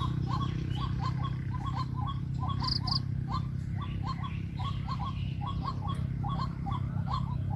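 White-breasted waterhen calling: a short note repeated rapidly, about three or four times a second, over a steady low hum.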